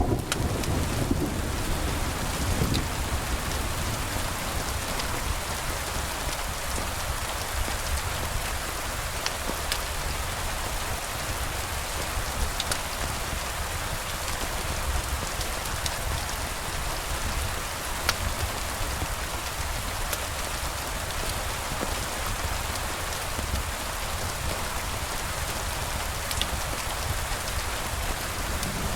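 Steady rain falling, an even hiss with a few faint scattered ticks. A low rumble of thunder fades away in the first second or so.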